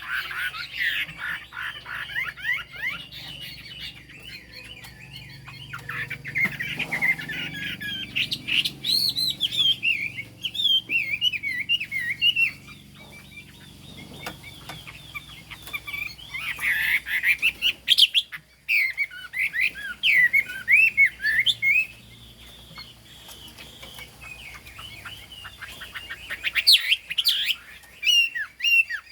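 Chinese hwamei singing: several phrases of rapid, varied whistled notes that slur up and down, separated by pauses of a few seconds.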